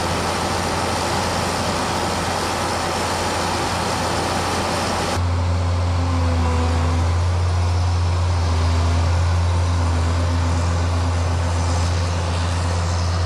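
Case IH 2388 combine's diesel engine running steadily, a low hum with a constant pitch. About five seconds in, the sound shifts abruptly to a fuller, lower hum with less hiss.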